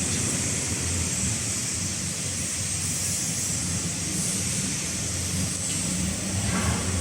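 Automatic cartoning machine running: a steady low hum with an even hiss over it, and a brief louder sound a little before the end.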